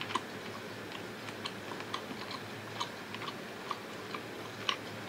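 A person quietly chewing a mouthful of beef stir-fry over rice, giving soft, irregularly spaced mouth clicks over a low steady hum.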